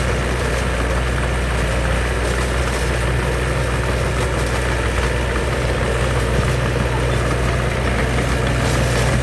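Heavy diesel engine of earthmoving machinery running steadily with a deep, even low hum.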